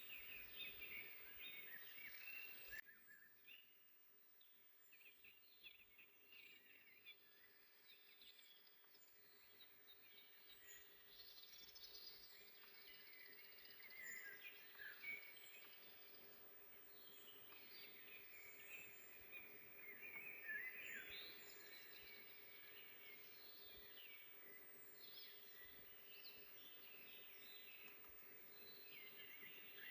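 Several songbirds chirping and singing faintly, with many short overlapping calls and trills. A faint steady low hum runs underneath.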